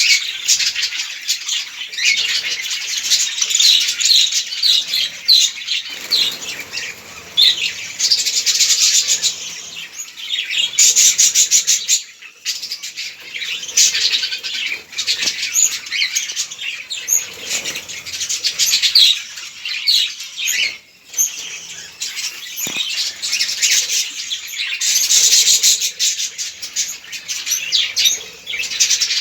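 A flock of budgerigars chattering and chirping together in an aviary, a dense unbroken mix of many short, high calls that dips only briefly twice.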